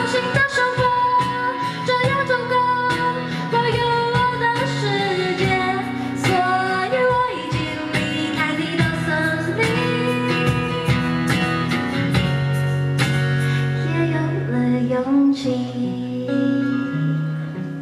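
Live band playing a pop song: a woman singing over guitar and drums, with the drum hits steady throughout. In the second half the singing gives way to held guitar chords.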